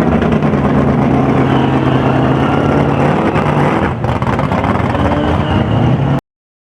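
Ford Maverick's naturally aspirated V8, fed by two four-barrel Quadrajet carburettors, running hard at high revs, with a brief dip about four seconds in; the sound cuts off suddenly near the end.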